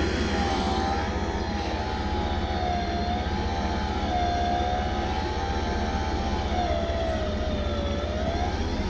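Vehicle winch pulling a stuck van on its line, its motor whining with a pitch that wavers up and down under changing load and sags lowest near the end, over a steady low drone.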